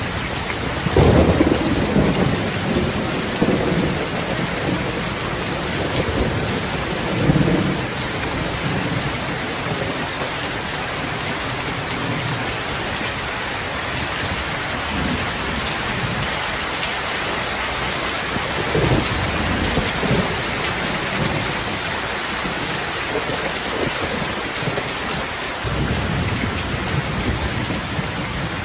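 Heavy steady rain with low rolls of thunder, the rumble swelling about a second in, again around seven seconds and near nineteen seconds.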